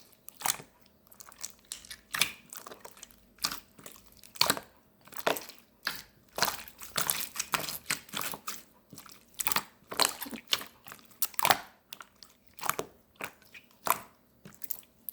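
Clear water slime being squeezed and stretched by hand, giving irregular sticky pops and crackles, sometimes in quick runs.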